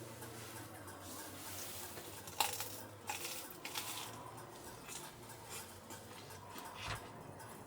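Several light clinks and knocks of small hard objects, like dishes or utensils being handled, the sharpest about two and a half seconds in, over a steady background hiss.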